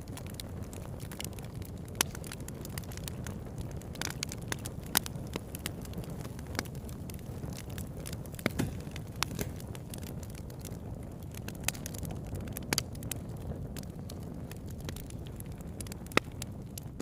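Campfire burning: a steady low rumble with frequent, irregular sharp crackles and pops from the burning wood.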